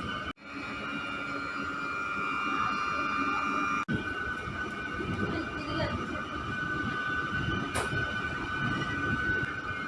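MEMU electric multiple-unit train running, a steady rumble with a steady high whine over it. The sound drops out for an instant twice, once just after the start and once near the middle.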